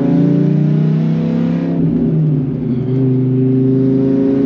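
Dodge Ram SRT-10's V10 with an aftermarket exhaust, loud under hard acceleration in a low gear. Its pitch breaks about two seconds in, then climbs slowly again.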